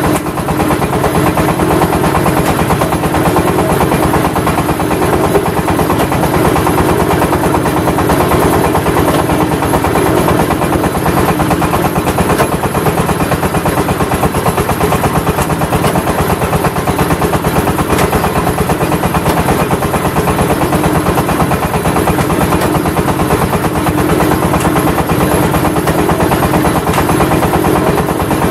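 Engine-driven clay brick press machine running steadily, a loud continuous drone with a fast even pulse.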